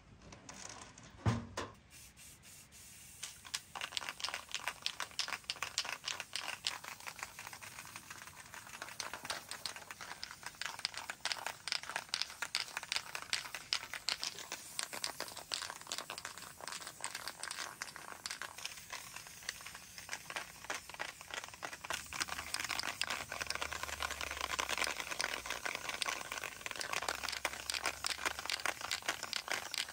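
Food frying in hot oil: a dense sizzling crackle that builds up after a single sharp knock about a second in.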